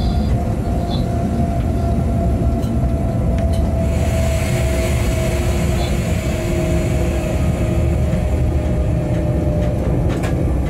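Freight train rolling along the track, heard from the locomotive cab: a steady low rumble with a faint steady whine over it. A hiss joins about four seconds in, and there are a few light clicks.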